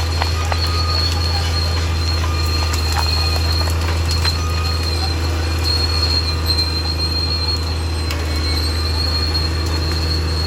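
Caterpillar D6R XL bulldozer working: its diesel engine runs with a steady low drone under a continuous high metallic squeal and scattered clanks from the steel tracks.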